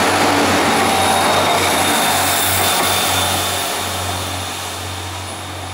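Irish Rail 29000-class diesel multiple unit passing close by: a steady rumble of wheels and engines with a faint high whine, fading from about three seconds in as the last car pulls away.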